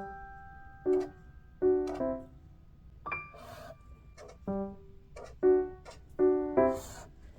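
Soft background music on a piano-like keyboard: separate notes and small chords struck roughly once a second, each dying away quickly.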